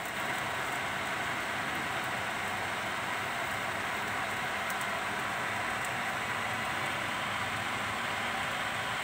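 Tempeh, chili, garlic, shallots and bay leaves sizzling steadily in a non-stick wok.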